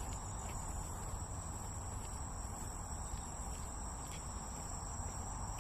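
Chorus of crickets and other insects: a steady, unbroken high-pitched trilling, over a low steady rumble.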